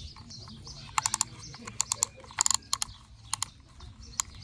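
Plastic toy train set's bridge mechanism being pulled and worked by hand, giving short clusters of sharp clicks and rattles, a handful of bursts about half a second to a second apart.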